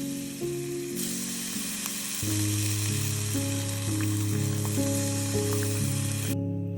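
Food frying in a pan, a steady sizzle that grows louder about a second in and stops suddenly near the end, over soft background music.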